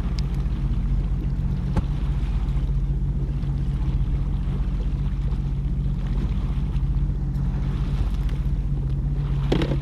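A jet ski's engine idling steadily, with wind on the microphone over the sea. There is a sharp click about two seconds in.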